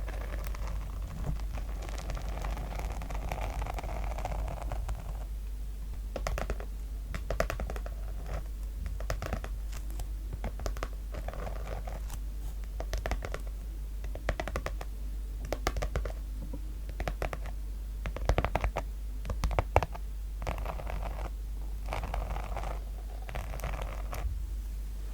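Scratching across the sequin-covered cover of a notebook, in repeated bursts of quick strokes.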